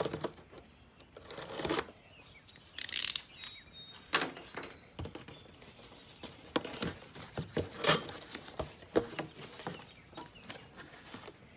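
A cardboard shipping box being opened and unpacked by hand: irregular tearing, rustling and crinkling of cardboard and packing material, with a few sharp knocks and scrapes.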